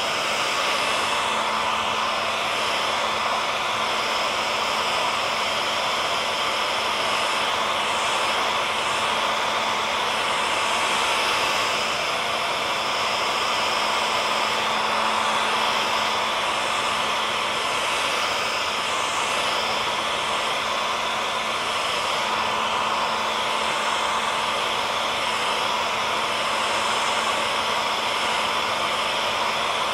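Hair dryer running steadily: an even rush of blown air with a faint steady motor hum and whine beneath it.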